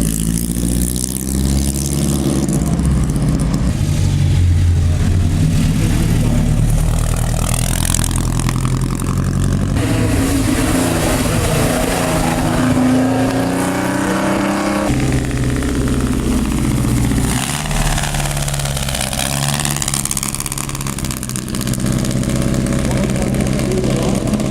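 Engines of old racecars, vintage midget racers among them, running and revving as the cars lap the track, their pitch rising and falling several times as different cars pass.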